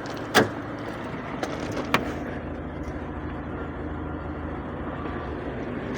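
VAZ-2111 1.5-litre eight-valve four-cylinder engine idling steadily at operating temperature, running smoothly. Two sharp clicks come about half a second in and again at two seconds.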